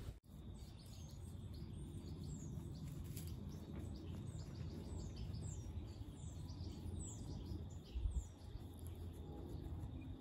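Small birds chirping in the background, short high descending calls repeated every second or so, over a steady low outdoor rumble, with a brief low thump about eight seconds in.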